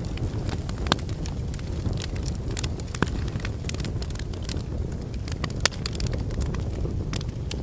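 Wood fire of burning logs in a fireplace, with a steady low rumble of flames and frequent sharp, irregular crackles and pops. The loudest pops come about a second in, three seconds in and near six seconds in.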